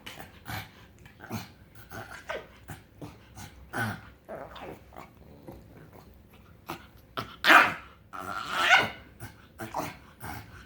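A pug making a string of short, odd vocal noises, some falling in pitch, the loudest two about three quarters of the way through: the strange sounds he makes when he is happy.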